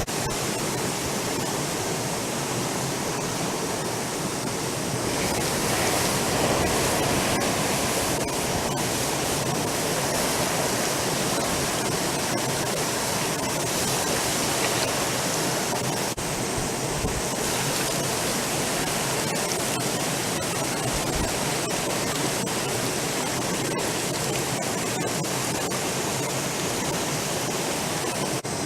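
Small mountain river flowing past the bank, a steady, even rush of water.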